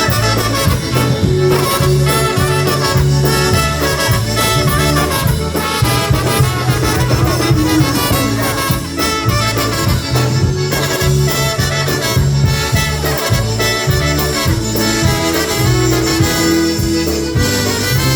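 Live polka band playing an instrumental break, with accordion and brass carrying the tune over a steady bouncing bass and drum beat.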